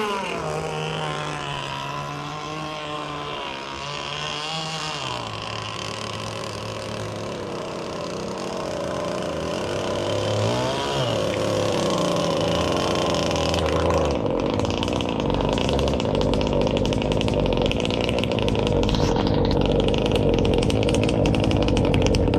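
A gas RC boat's Zenoah two-stroke engine running at speed, its pitch rising and falling as the throttle and distance change. It grows louder and rougher over the last several seconds, then cuts off suddenly at the end.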